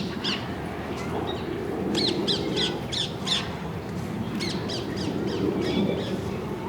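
Birds calling: runs of short, shrill, falling calls repeated in quick succession, over a steady low background murmur.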